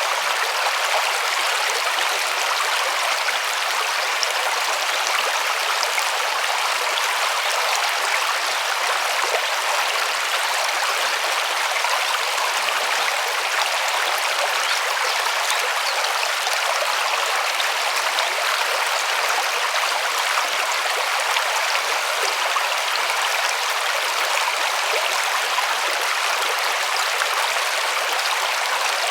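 River water flowing over stones, a steady rushing and babbling with no change in level.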